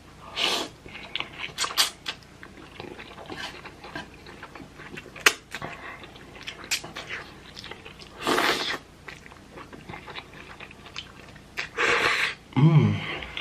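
A person eating instant ramen noodles close to the microphone: chewing with wet clicks, and three longer slurps, one near the start, one past the middle and one near the end. A short hum of a voice follows the last slurp.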